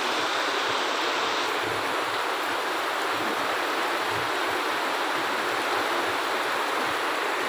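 Steady rainfall, an even hiss.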